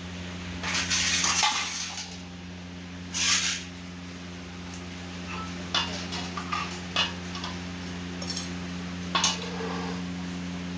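Steel idli-stand plates and utensils clattering: two longer spells of metal scraping and clanking in the first few seconds, then a few sharp clinks and taps as the plates are handled.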